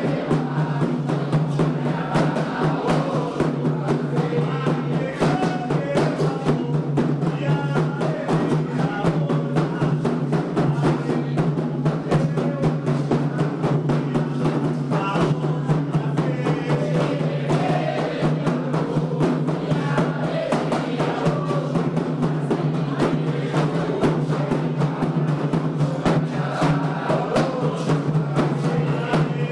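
Candomblé ritual music for Xangô: hand drums beating a fast, dense, unbroken rhythm under singing.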